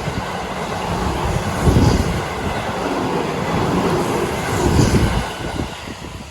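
Seibu Shinjuku Line electric train passing over a level crossing: a steady rumble of wheels on rail, with two heavier low surges about two and five seconds in, dying away near the end as the train clears.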